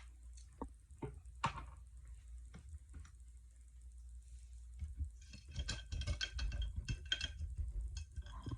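Painting supplies being handled: a few light taps and clicks, then a burst of rapid clattering and rattling from about five seconds in, lasting some two seconds.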